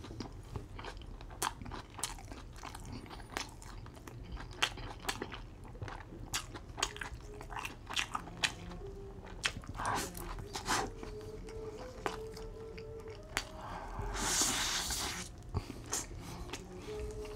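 Close-miked chewing of a double Whopper with cheese: wet, sticky mouth clicks and lip smacks throughout, with a short hiss about fourteen seconds in.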